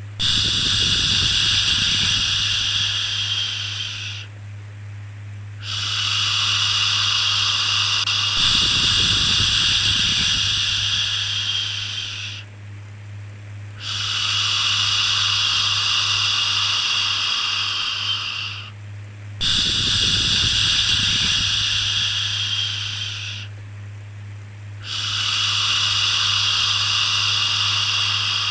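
Long, soft 'shhh' shushing sounds for soothing a baby, repeating one after another with short pauses between, about five in a row, over a steady low hum.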